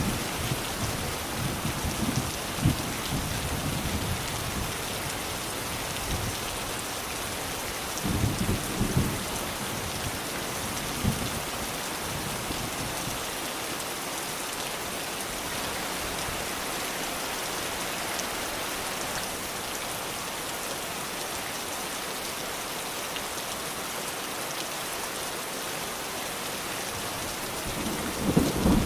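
Steady rain pattering, with low rolls of thunder rumbling at the start, again about eight seconds in, and building once more near the end.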